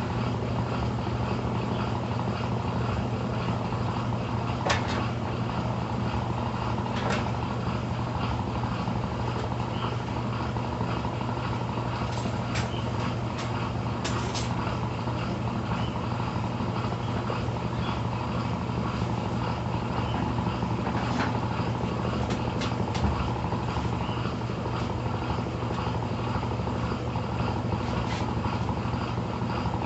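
Brastemp Intelligent 7 kg washing machine spinning, a steady low motor hum with no stop-start agitation rhythm, with a few faint clicks from the machine, typical of the final spin near the end of the cycle.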